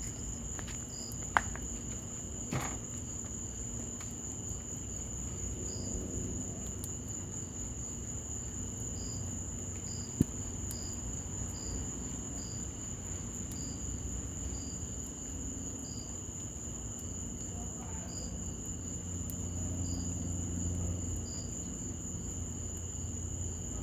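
Steady chorus of night insects: a continuous high trill with regular pulsing chirps over it, above a low rumble. A wood fire in a patio fireplace gives a few sharp pops, loudest about a second and a half in and again about ten seconds in.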